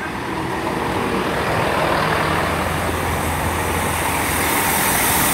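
Class 166 diesel multiple unit running into the station. Its steady diesel engine hum and wheel noise grow louder as it approaches, with a hiss rising near the end.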